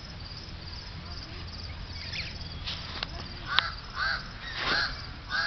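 A bird cawing: harsh calls repeated about every two-thirds of a second through the second half, with a sharp click just before the first, over a steady low rumble.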